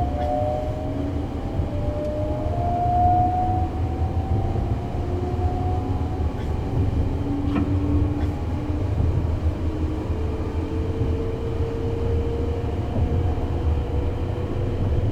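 Sunrise Express 285-series electric sleeper train running, heard from inside the car. A steady low rumble of wheels on rail sits under several faint motor whines that slowly rise in pitch as the train gathers speed, with a couple of faint clicks about halfway through.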